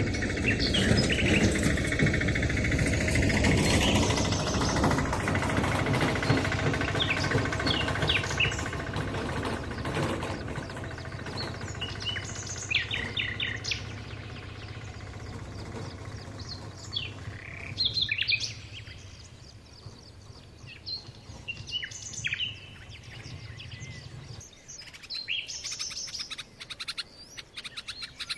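Wild birds chirping in short, scattered calls over a low background rumble that is loud for the first several seconds, then fades; a low hum under it stops near the end.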